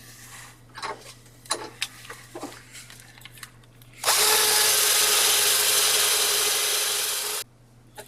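Light handling clicks and taps, then about four seconds in a small power tool runs at a steady speed for about three seconds, with a loud hiss over a steady motor tone, and cuts off abruptly.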